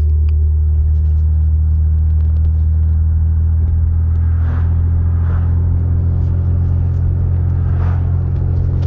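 Exhaust of a 2016 Ford F-150's 2.7-litre twin-turbo V6 idling with a low, steady note, through a 4-inch pipe and a Flowmaster Super 40 muffler with no resonator.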